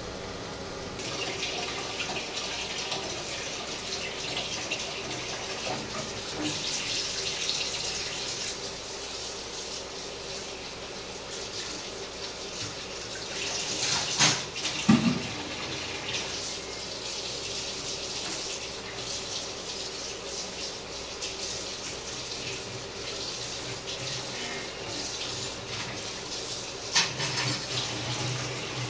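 Food frying in hot oil in a lidded wok, a steady crackling sizzle with sharper pops about halfway through and near the end.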